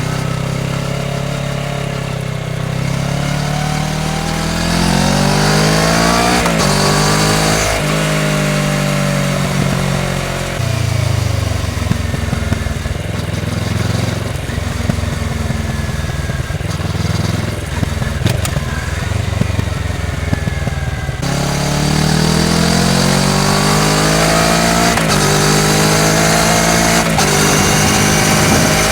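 A 2020 Kawasaki Ninja 650's parallel-twin engine through a full Akrapovič exhaust system, ridden hard. The engine note climbs under acceleration and drops sharply at each upshift, several times, over wind and road noise.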